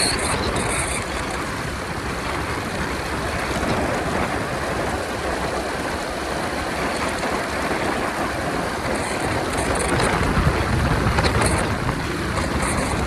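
Wind rushing over the microphone with the engine and road noise of a Honda 125 motorcycle riding at highway speed, a steady rush with no clear engine note.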